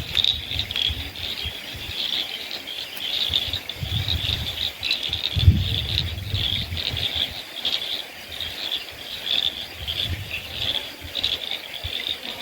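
Tropical rainforest evening chorus of insects and frogs: dense, high chirping that pulses without a break. Low rumbles come through a few times.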